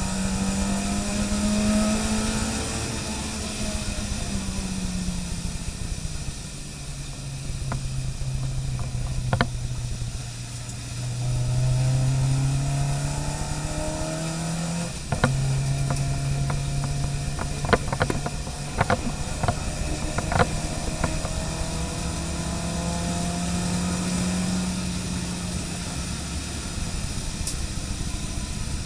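Car engine running under load, its note rising and falling slowly as the throttle is worked. There is a sharp knock about halfway through, then a run of scattered clicks and knocks.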